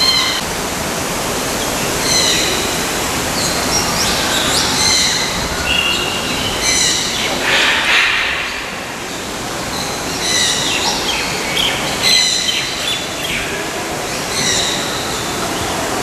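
Birds calling: short high calls repeating again and again, with a louder harsh squawk about eight seconds in, over a steady rushing background noise.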